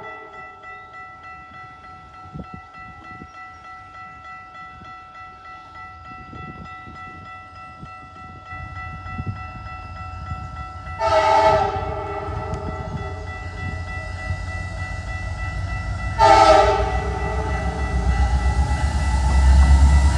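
Diesel locomotive air horn, several notes at once, sounding two blasts about 11 and 16 seconds in as the Evansville Western locomotives leading an empty coal train approach. The low rumble of the locomotives' engines grows louder through the second half.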